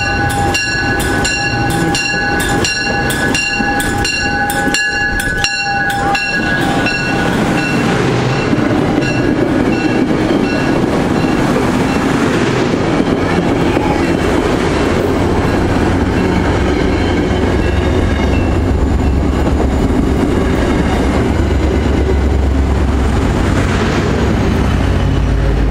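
Departing MBTA push-pull commuter train: its bell rings about twice a second for roughly the first six seconds, then fades. The passenger coaches roll past with steady wheel-on-rail noise, and over the last several seconds a deeper diesel engine sound builds as the locomotive pushing at the rear comes by.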